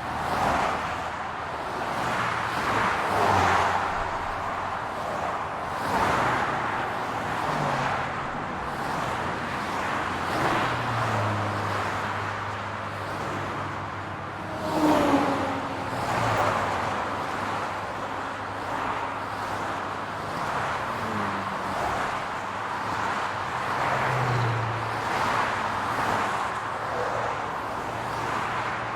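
City road traffic: cars passing one after another, a steady wash of tyre noise and engine hum that swells with each pass. One louder pass about halfway through carries a falling tone.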